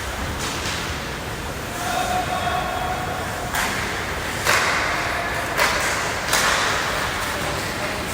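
Hockey game in play: a held call or voice for a second or so, then four sudden hissing scrapes with knocks, about a second apart.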